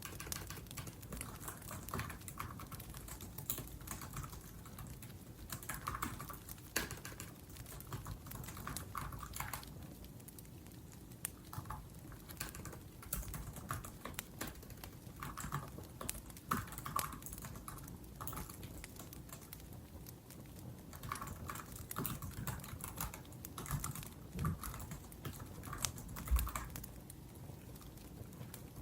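Laptop keyboard typing in runs of quick keystrokes with short pauses, over the soft crackle of a wood fire.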